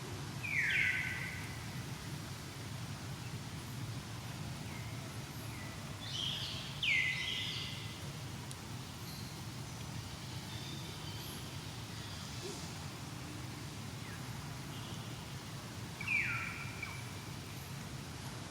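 Short, high animal calls that sweep downward in pitch: once near the start, a cluster of several around the middle, and once more near the end. A steady low rumble runs underneath.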